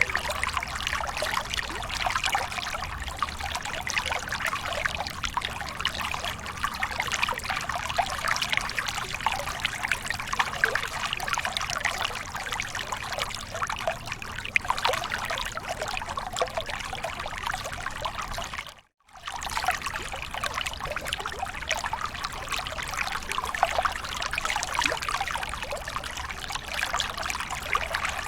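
Falling water splashing and pouring steadily, like a small waterfall. It cuts out for a moment about two-thirds of the way through, then carries on as before.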